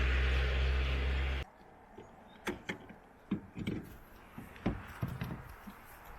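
A steady low hum with hiss cuts off abruptly about a second and a half in. Scattered clicks, knocks and soft thumps follow, the sound of cables and plugs being handled.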